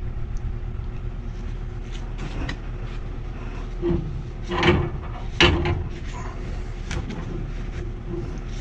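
A few knocks and scrapes from a wrench working threaded black-iron gas pipe fittings loose, three louder ones a little past the middle, over a steady low hum.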